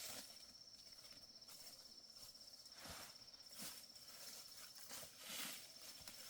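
Faint outdoor quiet with an insect trilling steadily on one high note, and a few soft scuffs, like footsteps, about three, three and a half and five seconds in.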